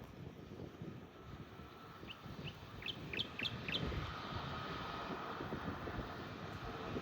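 A bird gives a quick run of about seven short, sharp chirps, over wind rumbling on the microphone. From about halfway, the hum of a distant jet aircraft grows louder.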